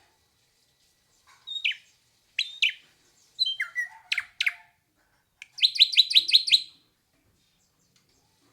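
Hair-crested drongo calling: several sharp whistled notes, some sliding steeply downward, then a fast run of about seven clipped repeated notes.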